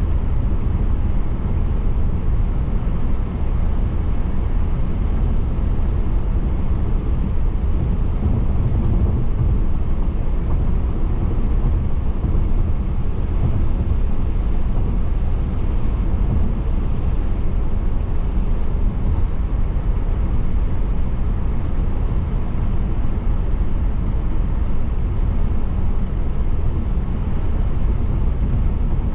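Car road noise while driving: a steady, even low rumble of tyres and engine.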